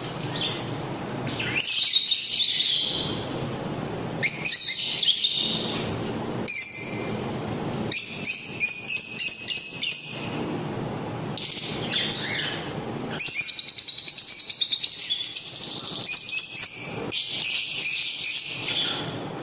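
A mixed group of pet parrots chirping and chattering, many high calls overlapping in bursts a second or two long.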